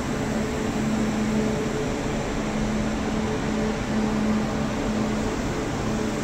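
Renfe Alvia train moving slowly alongside the platform under the station roof: a steady mechanical hum with a low drone that fades in and out.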